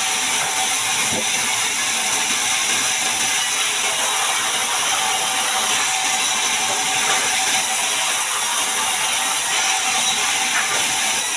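Band sawmill blade cutting through a large mahogany log: a steady, even noise with a thin high whine running under it.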